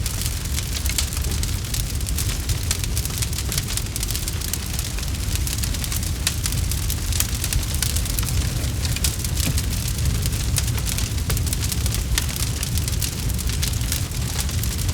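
Campfire burning with dense, irregular crackling and snapping over a steady low rumble of the flames.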